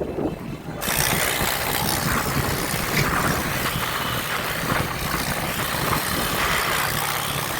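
Motorbike engines running under a steady hiss that comes in suddenly just under a second in.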